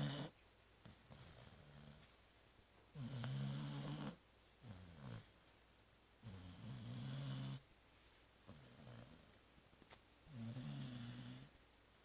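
Labrador retriever snoring in deep sleep: three long snores, each about a second, coming about every three and a half seconds, with softer breaths between.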